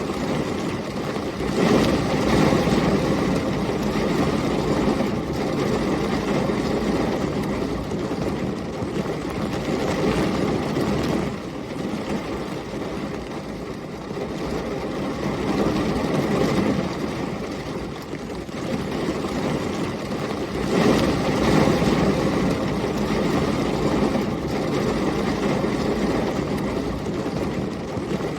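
Heavy rain and storm wind as a steady low rush, swelling into a louder rumbling surge twice, a couple of seconds in and again about two-thirds of the way through.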